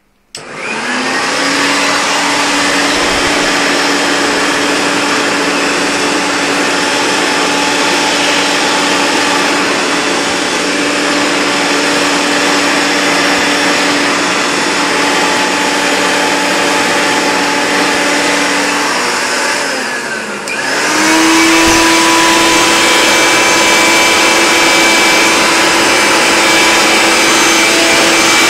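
Hoover Turbopower Plus U2602 upright vacuum cleaner, a direct-air machine, switched on: the motor spins up and runs steadily at low speed. About twenty seconds in it dips for a moment, then comes back louder and higher in pitch at high speed.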